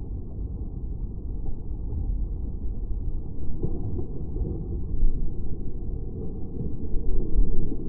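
Strong gusting wind buffeting the microphone: a muffled low rumble with no clear high end, surging louder a few times, strongest near the end.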